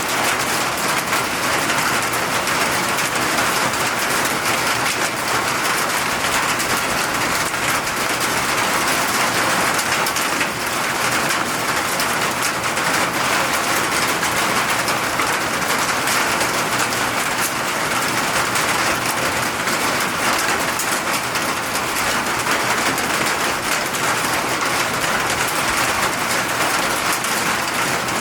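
Steady rain falling and pattering on surfaces, an even hiss with dense fine drop impacts.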